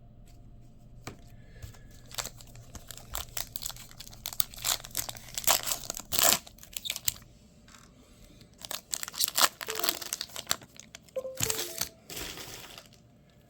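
Baseball card pack wrapper being torn open and crinkled by hand: bursts of sharp crackling, with a short lull in the middle.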